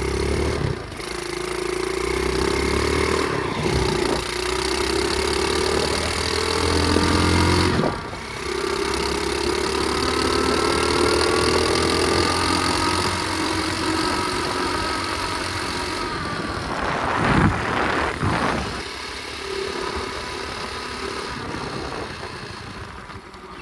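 2004 Flywing pit bike's small engine pulling through the gears at easy revs, its pitch climbing in each gear with brief drops at the shifts about 1, 3.5 and 8 seconds in, and a quick rise and fall around 17 seconds in. The engine is still cold and being ridden gently to warm up.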